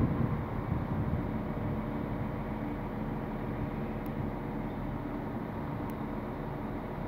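Passenger train coaches rolling slowly along the platform track: a steady rumble with a low hum, easing a little over the first second or so and then holding steady.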